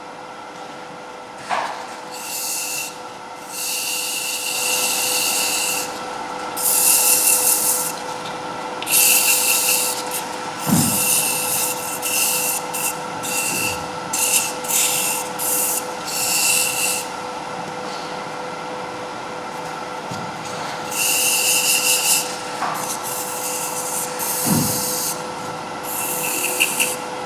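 Wood lathe running with a steady hum while something abrasive is pressed against the spinning wooden top in repeated bursts of a second or two, a rasping hiss with a faint squeal.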